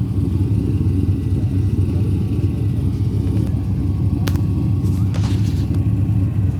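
Car engine running at low revs with a steady deep rumble as the car rolls slowly by, with a sharp click about four seconds in.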